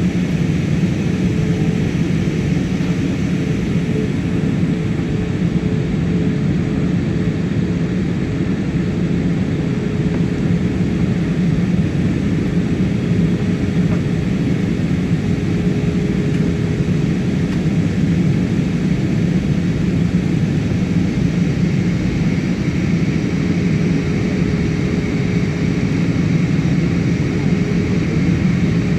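Steady cabin noise inside an Airbus A320-family jet airliner in flight: the even rush of engines and airflow, with a faint steady hum tone.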